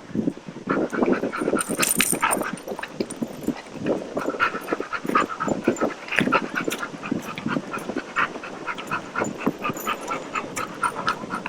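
A dog making rapid, short, repeated vocal sounds, loudest in the first two seconds or so.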